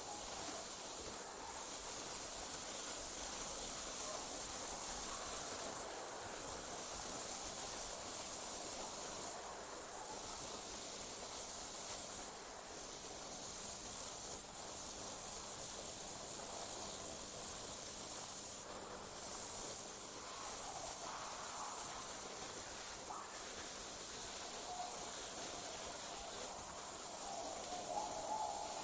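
Night insects, crickets, trilling continuously in a high-pitched chorus that breaks off for a moment every few seconds.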